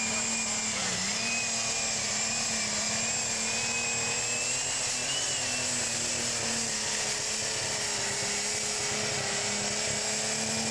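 Turbocharged diesel engine of an 8,300 lb super stock pulling tractor running flat out under load during a pull. The engine holds a steady drone with a high, steady whine above it, and its pitch dips briefly about a second in and wavers slightly.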